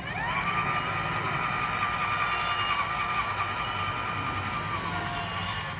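Small electric motor of an RC car whining: the pitch rises quickly as it speeds up, then holds a steady high whine for several seconds before easing off near the end.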